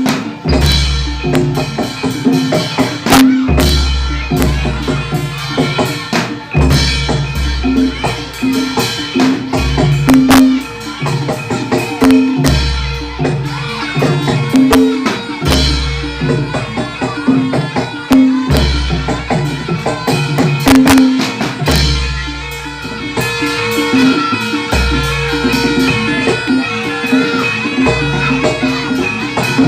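Live gamelan-style barongan accompaniment: drums and struck percussion keep a fast, dense rhythm, with a deep low stroke roughly every three seconds. A steady held pitch joins about two-thirds of the way through.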